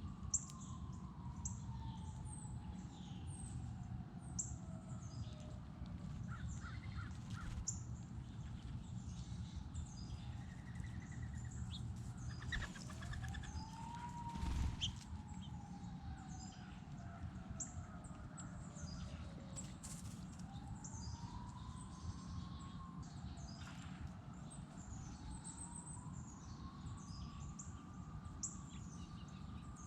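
Wild birds chirping over and over in short high notes, with a few harsher, lower calls now and then. A faint tone in the background slowly rises and falls several times over a low steady rumble.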